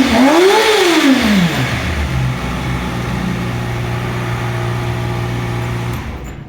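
Kawasaki Ninja ZX-6R's inline-four engine revved in one last blip, its pitch rising and falling, then settling to a steady idle. The sound drops off sharply near the end.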